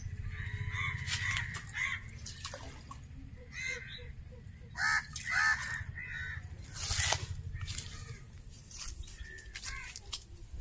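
A bird calling several times with short, harsh caws around the middle, over a steady low rumble. There is a brief rustling burst about seven seconds in.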